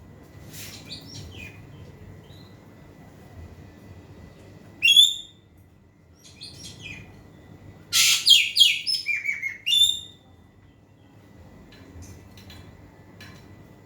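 Ekek keling calling: one loud, sharp call about five seconds in, then a quick run of loud, piercing calls with falling notes from about eight to ten seconds.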